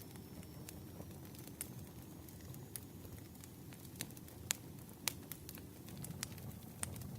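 Campfire burning: a steady low rustle with sharp, irregular crackles and pops, the loudest about four and a half and five seconds in.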